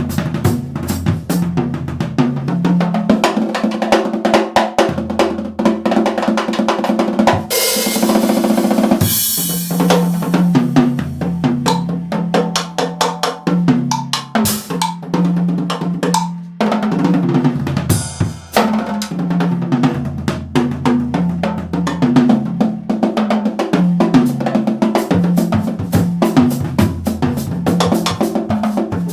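A Yamaha drum kit with Zildjian cymbals played in a busy groove of bass drum, snare and hi-hat, over a backing track with a bass line. Cymbals crash about a third of the way in and again past the middle.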